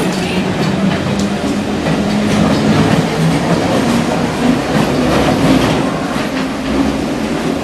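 London Underground C Stock train running on the track: a steady low hum under the rumble of the wheels, with wheels clattering over rail joints.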